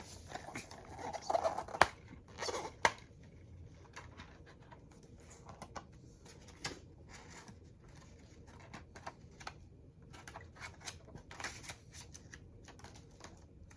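Quiet handling noise from opening a plastic DVD case: the wrapping is scratched, torn and peeled off with crinkling and scattered small clicks, one sharper click about two seconds in.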